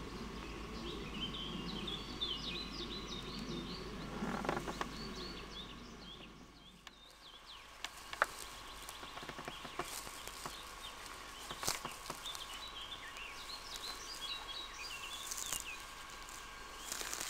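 Songbirds chirping in two spells, against a low rumbling noise on the microphone during the first few seconds. A few sharp clicks follow later.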